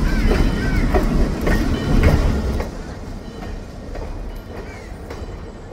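Vintage railway passenger coaches rolling past close by, a low rumble with wheels clicking over the rail joints. About two and a half seconds in the rumble drops away as the train moves off.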